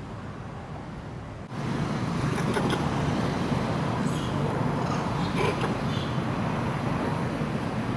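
Outdoor background noise: a steady low rumble like passing road traffic. It steps up louder suddenly about a second and a half in, and a few brief high sounds show through.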